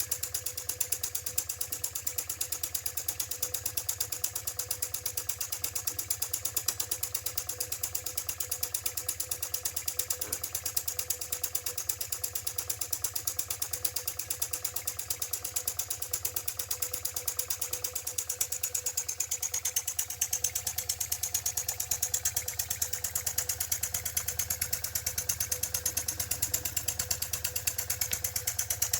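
Small IND-X electrically heated toy steam engine running steadily, its slide-valve mechanism and steam exhaust making a fast, even clicking beat.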